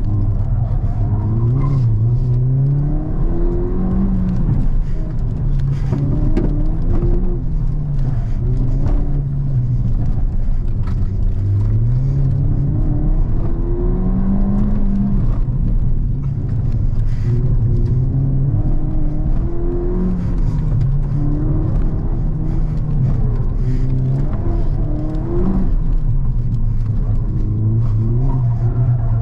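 Ford Fiesta engine heard from inside the cabin, revving up and dropping back over and over as the car is driven hard. Its pitch climbs with each pull and falls on each lift or gear change.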